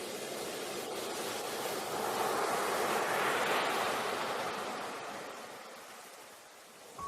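Ocean surf: the sound of a wave swells, peaks about halfway through and fades away.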